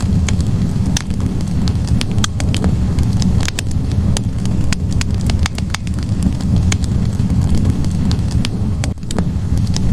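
Wood logs burning in a fireplace: a steady low rumble of flames with frequent sharp crackles and pops, several a second at irregular intervals.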